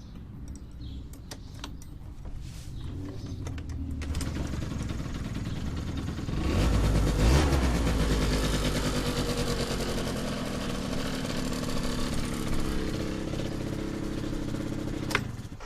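Yamaha Aprio 50cc two-stroke scooter engine running, revved up to its loudest about seven seconds in, then held with the pitch easing slowly down; it cuts off abruptly near the end.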